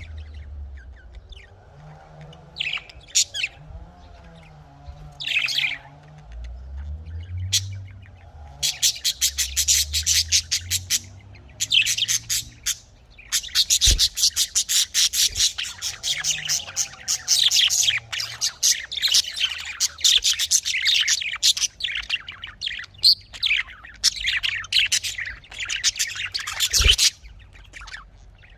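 Budgerigars (Australian parrots) chirping and chattering: scattered short calls at first, then from about eight seconds in a dense, rapid stream of high-pitched chirps.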